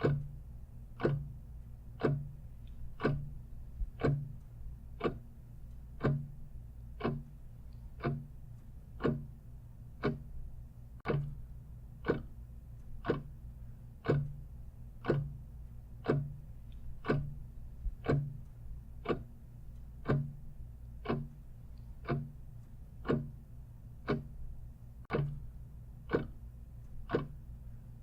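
Clock ticking steadily at about one tick a second, each tick a short click, over a faint steady low hum.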